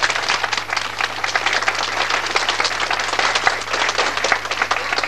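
Audience applauding: a dense, steady patter of many hands clapping at the end of a musical number.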